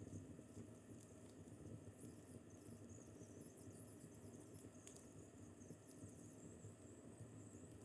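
Faint crackling of a wood fire in a fireplace: a low steady rumble with scattered small pops and thin high hissing squeaks.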